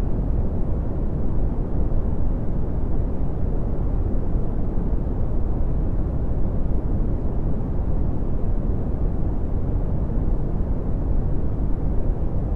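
Steady red (Brownian) noise: a deep, even rumbling hiss with most of its power in the lows and little in the highs, unchanging in level.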